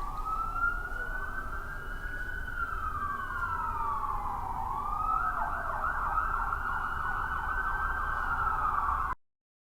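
Emergency vehicle siren wailing in slow rising and falling sweeps, then switching to a fast warbling yelp about five seconds in, over a low rumble. It cuts off suddenly near the end.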